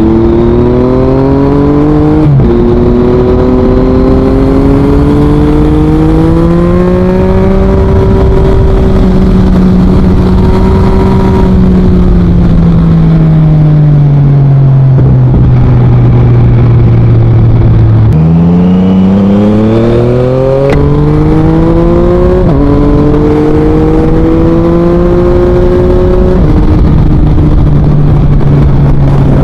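2023 Yamaha MT-09's three-cylinder engine through an Akrapovič full exhaust, under way: it revs up through the gears with a quick upshift about two seconds in and holds a steady pitch. It then winds slowly down as the throttle is rolled off, and about eighteen seconds in accelerates hard again, with further quick upshifts before settling.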